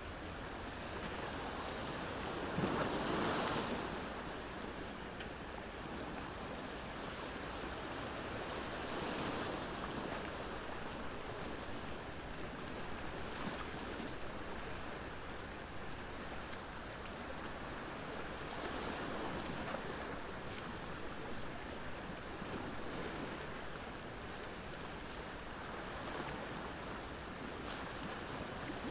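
Ocean waves washing ashore in slow swells every four to six seconds, the biggest about three seconds in, over a steady surf hiss. Faint crackles from a wood bonfire tick through it now and then.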